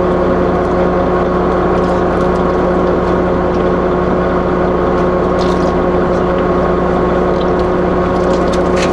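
Fishing boat's engine and machinery running steadily: a constant drone with a few fixed hum tones, and a couple of faint clicks.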